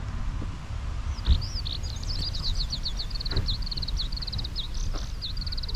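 A songbird singing fast trills and chirps over a steady low rumble, with a brief thump about a second in.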